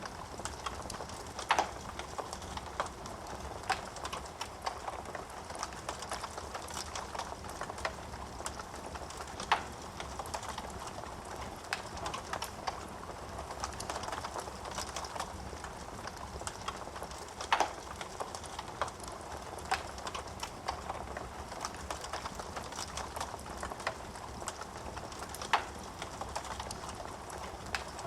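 Wood fire burning in a fireplace, crackling steadily with many small pops and a few louder, sharper snaps of burning wood.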